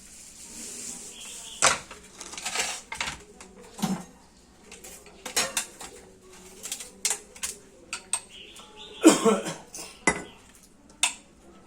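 Metal tools and parts clinking and clanking together at irregular intervals while a sugarcane press is worked on, with louder clanks about two seconds in and again about nine seconds in.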